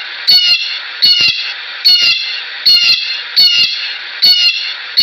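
An animal calling over and over, a short sharp high call roughly once a second, over a steady hiss.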